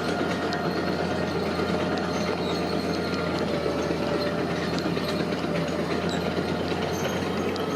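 Heavy earth-moving machinery running steadily: a low diesel engine note under dense mechanical noise, with many small metallic clicks and rattles throughout.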